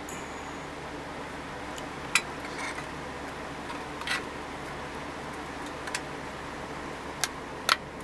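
A few light, sharp clicks and taps, about five spread over several seconds, from small hard parts being handled, over a steady low hum.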